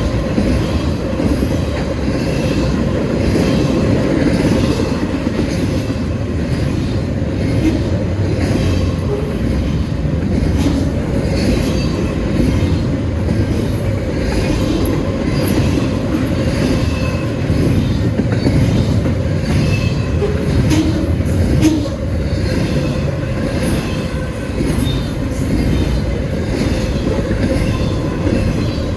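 Freight train rolling past at close range: a steady rumble of wheels on rail, with faint clicks over the rail joints and short, high wheel squeals now and then.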